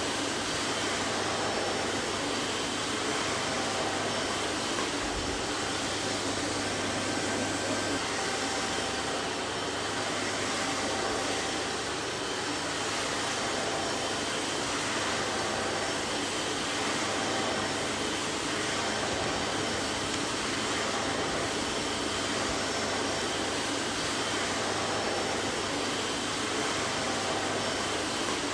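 Vacuum cleaner running steadily: an even rushing of air over a steady motor hum, with faint high whistling tones.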